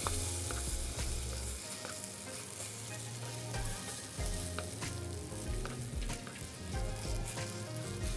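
Food sizzling as it fries in hot oil in a wok, a steady hiss with occasional light clicks of stirring.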